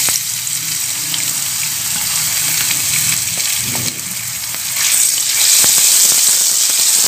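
Ground garlic and turmeric paste sizzling in hot oil in a non-stick wok as it is scraped in with a silicone spatula. The sizzle grows louder about five seconds in, when the paste is spread and stirred through the oil.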